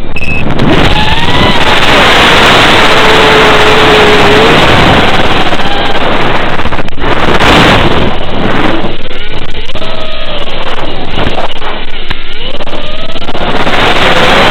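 FPV racing quadcopter's motors and propellers, heavily distorted and buried in wind noise, the motor whine rising and falling in pitch with the throttle.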